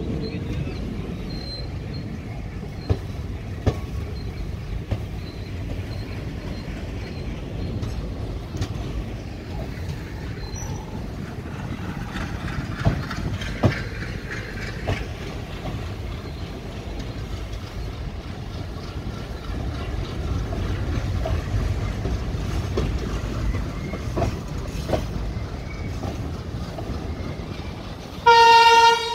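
Steady low rumble of a train running through a station, heard from on board, with occasional sharp clicks of the wheels over rail joints. Near the end the train's horn gives one short, loud blast.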